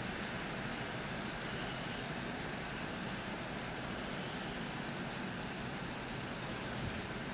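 Steady, even hiss of a storm with no thunderclap.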